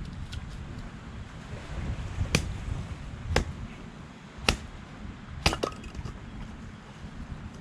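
Four sharp knocks, about one a second, the last one doubled, like a tool or hard object striking wood or stone. Wind rumbles on the microphone underneath.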